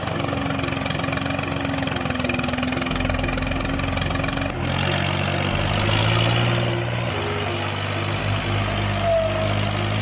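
An engine running steadily, like a tractor's, its pitch stepping up or down about five and again about seven seconds in.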